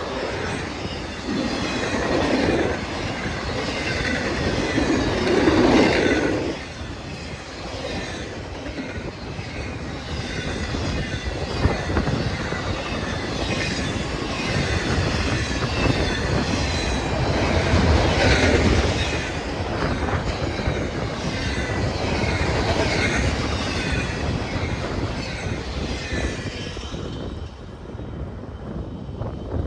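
Train rolling past with wheels clattering on the rail joints and squealing, then fading near the end.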